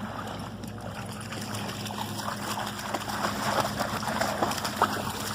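Shallow water sloshing and splashing in a dense run of small splashes that gets louder from about two seconds in.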